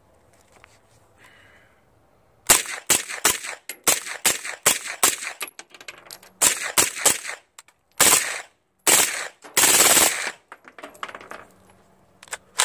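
PTR 9CT 9mm MP5-clone firing suppressed with 124-grain Winchester NATO ammunition: a string of quick single shots, then tighter runs of shots, the last lasting about a second.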